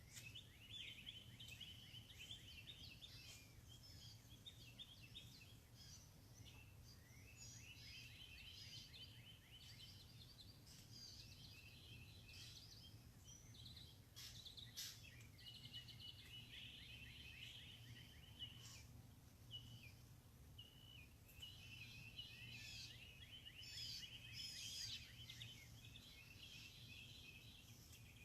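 Faint, continuous chorus of several songbirds, with many overlapping chirps, trills and short falling calls. A steady low hum runs underneath.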